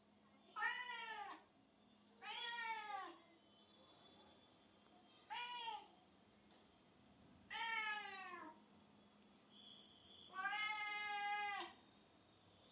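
A cat meowing five times, spread over about ten seconds; the last meow is the longest and holds one pitch.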